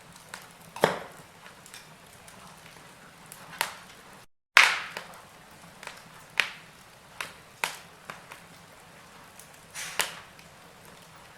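Wood fire in a fireplace crackling over a faint hiss, with sharp pops every second or two; the loudest pop comes a little under halfway through, right after the sound cuts out for a split second.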